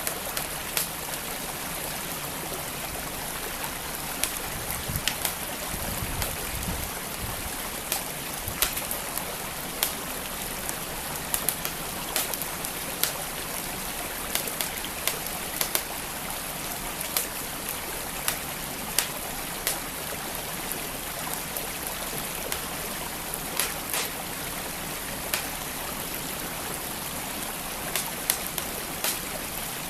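Wood fire crackling, with sharp pops at irregular intervals, over the steady rush of a flowing stream.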